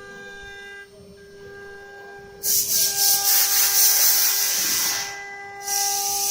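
CNC router spindle running with a steady whine. About two and a half seconds in, a loud hissing cutting noise starts abruptly and lasts about two and a half seconds as the bit cuts into the material, then comes again briefly near the end.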